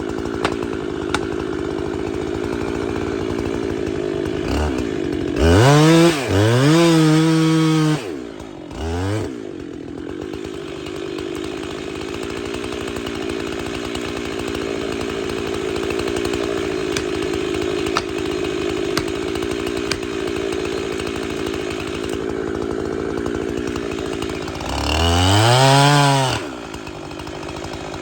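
Husqvarna chainsaw running steadily at low throttle, opened up to full revs twice for a couple of seconds each, with a short blip of throttle in between.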